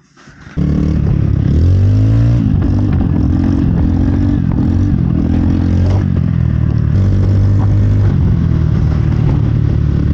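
A motor vehicle running close by and revving, its pitch rising and falling, over a rushing noise. It starts abruptly about half a second in and cuts off just as abruptly near the end.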